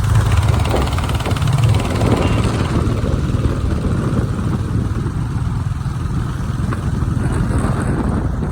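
A motor vehicle's engine running steadily, a loud low rumble.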